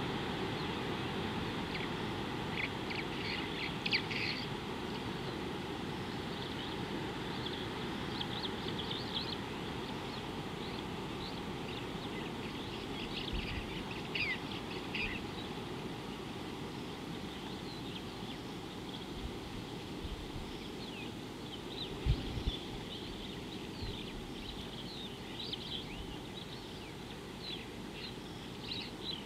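Birds chirping and calling in many short, high notes over a steady low rushing background, with a couple of brief low thumps about halfway and three-quarters through.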